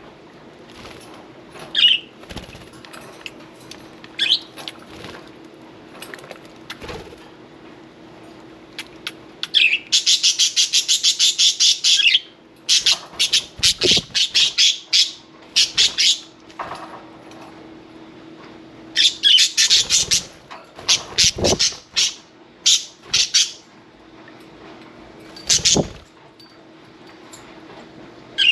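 Budgies bathing: bursts of rapid wing-flapping, the first and longest about ten seconds in, then more flurries over the next dozen seconds, with a few short budgie chirps between.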